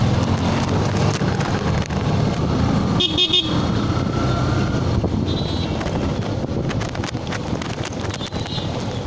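Yamaha FZS single-cylinder motorcycle engine running on the road with wind and traffic noise. Short vehicle horn toots cut through, the clearest about three seconds in.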